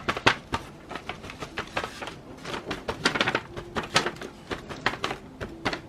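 Quick irregular light taps and rubbing as a damp wipe dabs milk paint off small styrene-board bricks, leaving a dulled, weathered finish.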